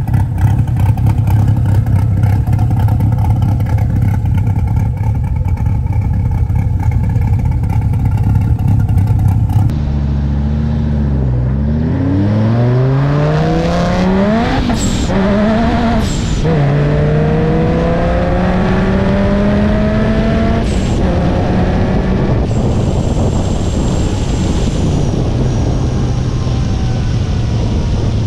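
Supercharged Dodge Viper SRT-10's V10 engine, first running at a steady pitch. After an abrupt cut it accelerates through the gears: the pitch climbs, drops at each shift about three times, then holds at a steady cruise.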